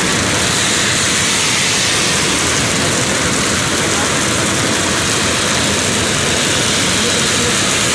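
Heavy thunderstorm downpour: a steady, loud hiss of rain.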